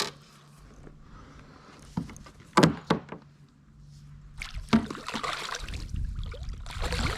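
Hollow knocks against a canoe hull, the loudest about two and a half seconds in, followed by water sloshing and splashing that grows louder over the last couple of seconds.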